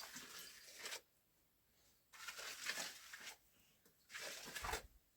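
Three bursts of crunching, crinkling rustle, each about a second long, with short quiet gaps between them.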